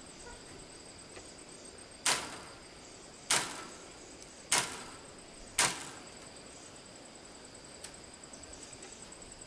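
Four sharp hammer blows on wood, each a little over a second apart, with a short ring after each. Steady high insect trilling carries on underneath.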